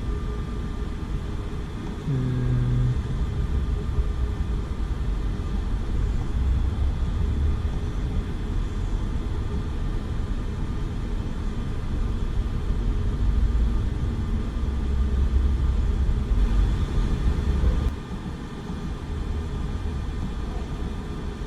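Steady low mechanical rumble with a faint high whine, from running chiller-plant machinery; it drops in level about 18 seconds in.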